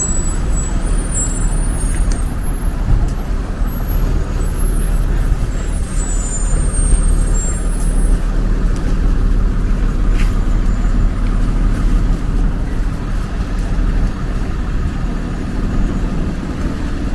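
Street traffic: a steady rumble of road vehicles passing, with faint high-pitched squeaks in roughly the first half.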